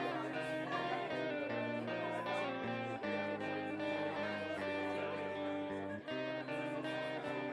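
Guitar music, plucked and strummed with a steady rhythm.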